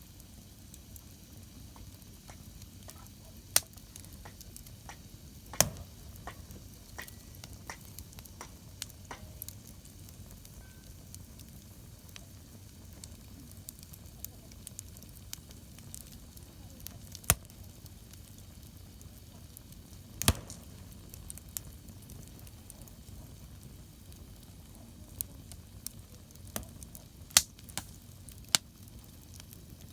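Wood campfire crackling over a steady low hiss, with scattered small clicks and several sharp pops, the loudest about four seconds in, twice near 17 and 20 seconds, and twice near the end.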